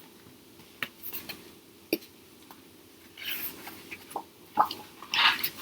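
Quiet room tone with a few faint clicks and two short soft rustling hisses.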